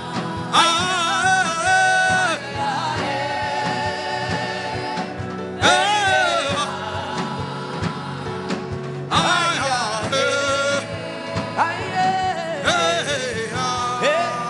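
Gospel worship music: a voice singing long, wavering held notes over instruments and a steady beat.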